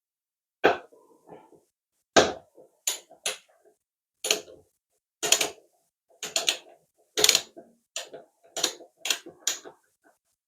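A spanner clicking and knocking against a lever tap's metal body while the tap's ceramic valve cartridge is worked loose. There are about a dozen sharp, uneven strikes, each ringing briefly.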